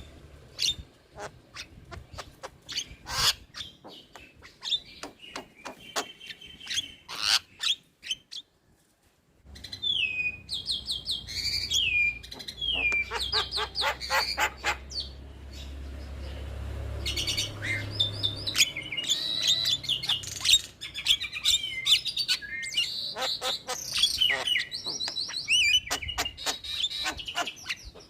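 Javan myna (jalak kebo) singing: sharp clicking calls and whistles, a brief break about eight seconds in, then a long varied run of whistled glides and rapid chattering notes.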